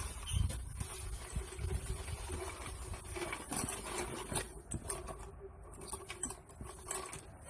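Scattered light clicks, knocks and shuffling from someone working around a vehicle, with a faint steady hum underneath.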